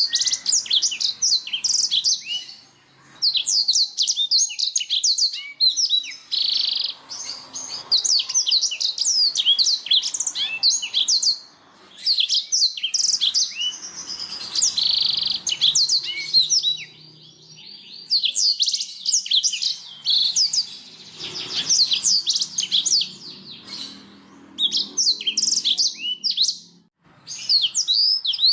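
Domestic canary singing: long bouts of fast, high trills and chirps, broken by a few short pauses.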